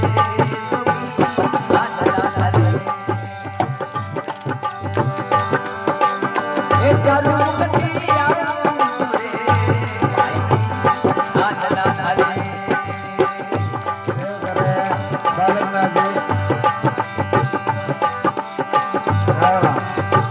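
Rajasthani folk bhajan music in an instrumental passage: a wavering melody over a steady drum rhythm.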